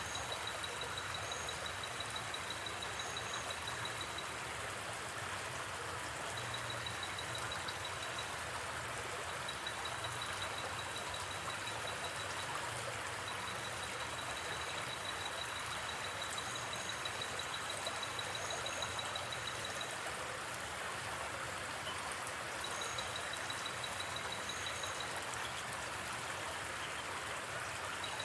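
Steady rushing of a gently flowing river, with a high, pulsing trill of night insects that comes and goes in stretches and a few faint high chirps.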